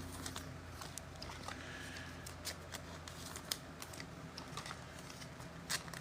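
Trading cards being handled: scattered light clicks and ticks as cards are slid and tapped against one another, a couple of them louder, over a low steady hum.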